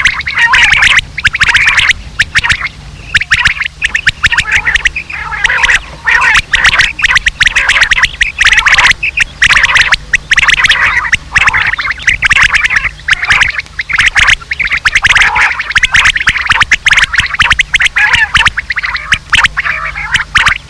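Quail calls from a batair lure recording: fast, harsh chattering calls repeated almost without pause, over a low steady hum.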